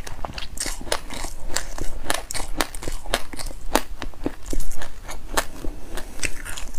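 Crunchy chewing of a mouthful of raw white sesame seeds and passionfruit pulp with its seeds: a fast, irregular run of small sharp crackles and crunches.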